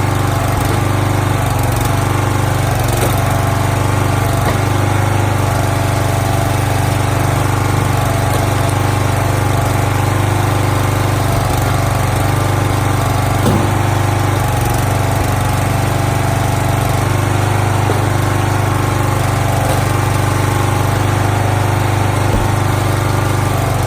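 Gas engine of a firewood log splitter running steadily at a constant speed.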